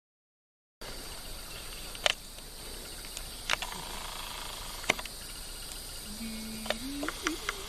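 After about a second of silence, insects drone steadily in summer woodland, with sharp clicks and knocks scattered through and coming more often near the end.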